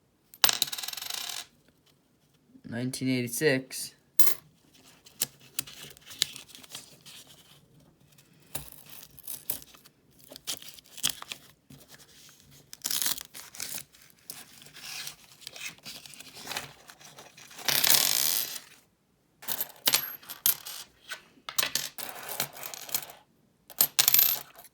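Pennies clinking and sliding against each other as they are handled and sorted from opened coin rolls, with many short taps and a few brief rustling bursts.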